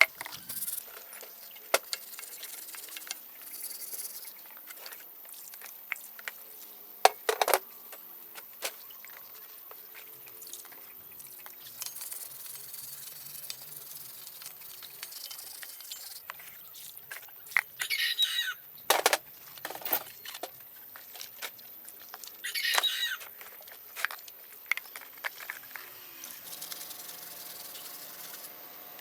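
Workshop hand work on parts: scattered clicks and knocks, with two short bursts of scraping, the first about two-thirds of the way through and the second a few seconds later.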